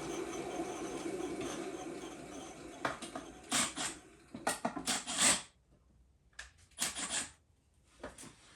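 Bandsaw running, then winding down about two seconds in. A string of sharp clatters and knocks follows, with a quiet stretch near the end.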